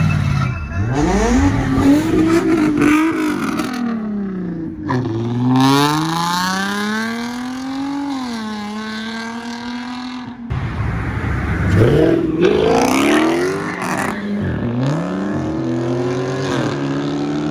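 Car engines revving and accelerating hard, the engine note climbing in pitch and then dropping again several times over, as with quick revs and upshifts.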